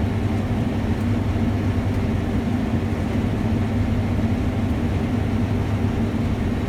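Combine harvester running at a steady working drone, a constant low hum with no change in pitch.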